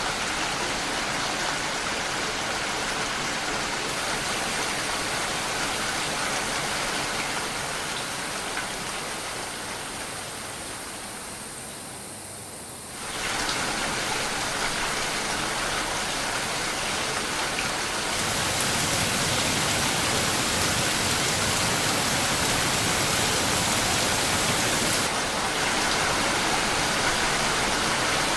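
Steady rain, an even hiss of falling drops. About halfway through it fades a little quieter, then comes back abruptly at full level, and its tone changes again twice later on.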